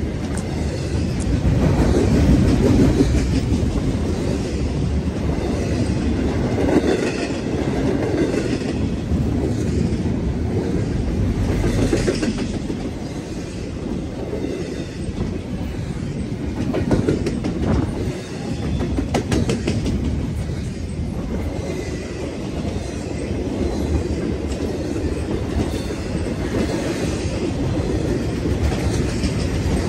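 CSX intermodal freight train's cars rolling past close by: a steady rumble of wheels on rail, with clacks of the wheels over the rails, a cluster of them about two-thirds of the way through.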